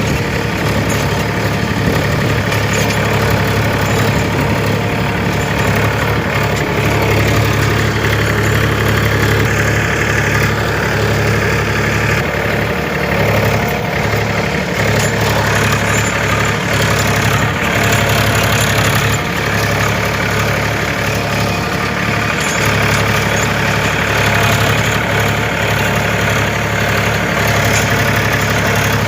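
Farm tractor's diesel engine running steadily under load while ploughing, a continuous low hum with slight rises and dips in level.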